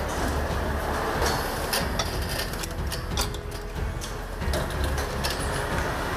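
Machinery running with a steady low hum and irregular clicks and knocks.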